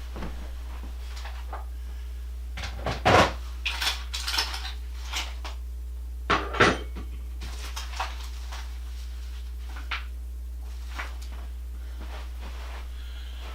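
Irregular clinks and knocks of metal parts and tools being handled, with two louder clatters about three seconds in and about six and a half seconds in.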